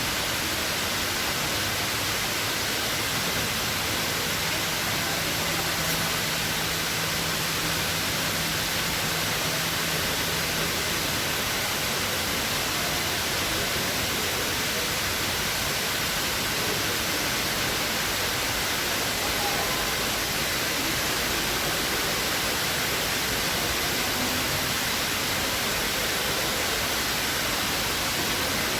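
The Dubai Mall Waterfall, a tall indoor man-made cascade of recycled water, pouring in a steady, even rush with no pauses.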